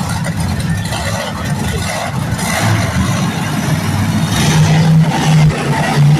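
Monster truck engine running hard and revving, getting louder about four and a half seconds in.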